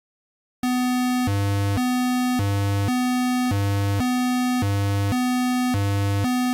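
Simulated buzzer sounding a railway crossing warning: two electronic square-wave tones, one higher and one lower, alternating roughly twice a second. It starts abruptly about half a second in.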